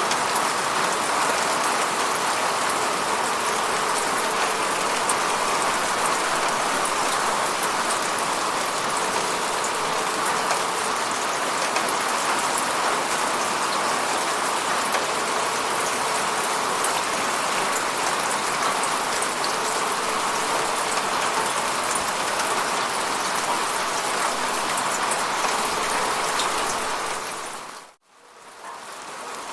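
Steady falling rain, a dense patter of drops. It fades out briefly and then back in near the end.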